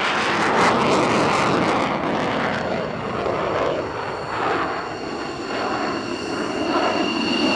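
Eurofighter Typhoon jet in flight, its twin EJ200 turbofan engines giving a loud roar with a steady high whine over it. The roar is most crackling in the first two seconds.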